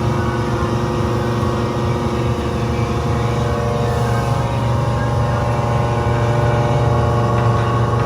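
CNC milling machine cutting steel with a 50 mm round-insert Seco Tools milling cutter at 1200 rpm and 13 mm depth of cut. It is a steady, loud cutting drone with a strong low hum and many steady tones above it, growing a little louder in the last couple of seconds.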